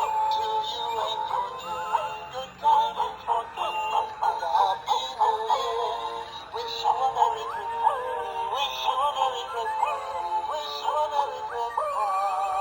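Hallmark Jingle Pals caroler trio toy singing a Christmas carol in electronic voices through its small built-in speaker. The sound is thin, with no bass.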